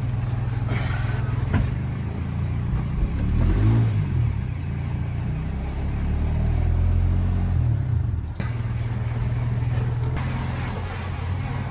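Quad (ATV) engine running under load, its pitch rising and falling as it is revved a few times, with a short break a little past the middle.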